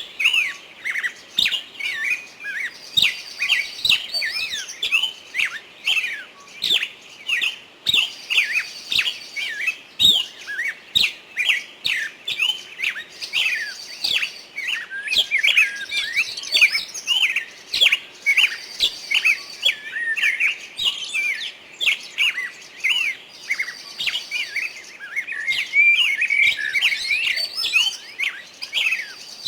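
Songbirds chirping continuously: many quick, high chirps in close succession, with a short buzzy trill higher up every few seconds.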